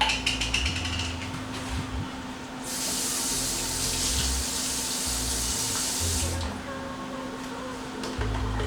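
A spoon clicking several times against a jar while scooping minced garlic, then a kitchen tap running for about four seconds.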